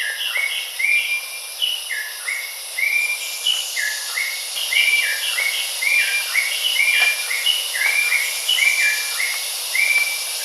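Rusty-breasted wren-babbler singing: a steady run of short, clear whistled notes, about three a second, alternating between a higher and a lower pitch, over a steady high hiss.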